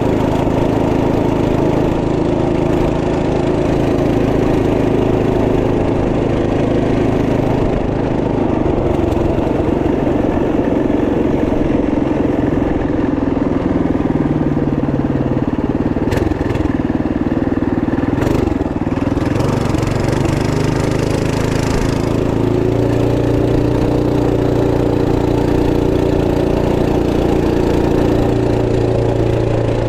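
Trailmaster MB200 minibike's 212cc single-cylinder four-stroke engine running under way. The engine speed drops about halfway through and then picks back up.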